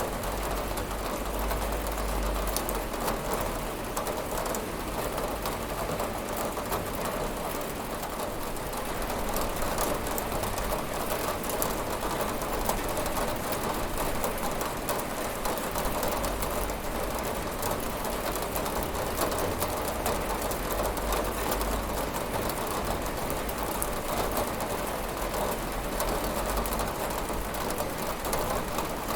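Steady rain falling and pattering against a window, a dense even hiss of many small drop ticks with a low rumble underneath.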